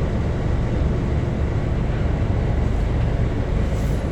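Scania double-decker bus's diesel engine running with a steady low rumble.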